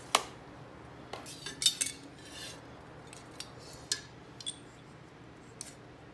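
Light metallic clinks and taps as steel tools and a mild steel flat bar are handled on a workbench: a sharp clink at the start, a quick cluster of clinks a little over a second in, then single taps every second or so.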